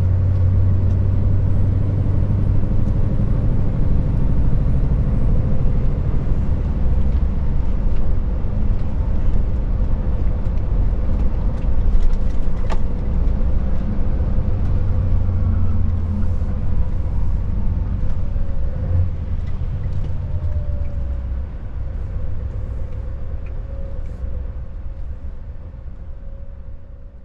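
Scania S580 truck's V8 diesel running steadily under way with road noise: a strong low hum and a steady higher whine, fading away over the last few seconds.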